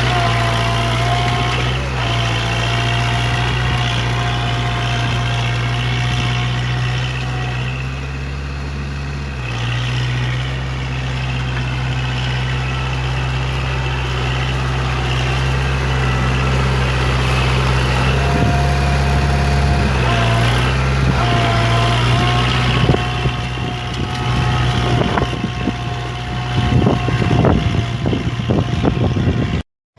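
Kubota MU4501 tractor's four-cylinder diesel engine running steadily under load while puddling a wet field, its note shifting a few times. Irregular knocks and rattles come through over the last few seconds.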